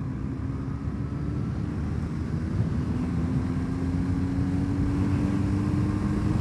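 1984 Honda CB450SC Nighthawk's parallel-twin engine pulling hard under load in fifth gear, its pitch and loudness climbing slowly as the bike accelerates, over a low rush of road and wind noise.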